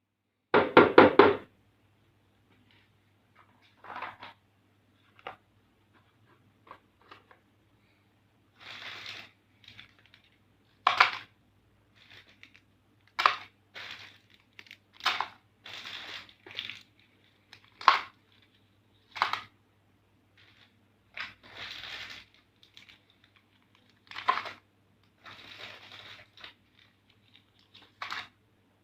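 Plastic candy packaging crinkling and tearing in short irregular rustles every second or two, over a faint steady low hum. A louder, brief burst comes right at the start.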